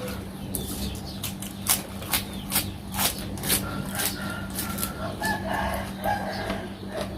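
Sharp, repeated clicks and smacks of close-up eating while someone chews through marinated seafood. A chicken calls in the background, with a few pitched calls about five to six seconds in and another near the end.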